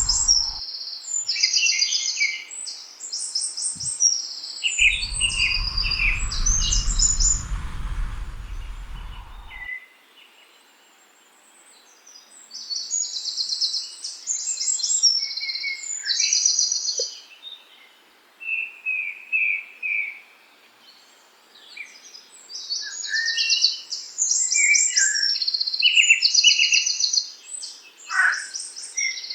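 Songbirds singing: repeated phrases of rapid high trills with lower chirped notes between them. A low rumbling noise comes in at the very start and again from about five to ten seconds in, then stops abruptly.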